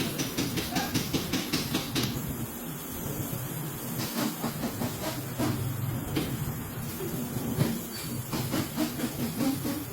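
A car's front wheel clicking abnormally in quick, even runs of about five clicks a second over a low rumble.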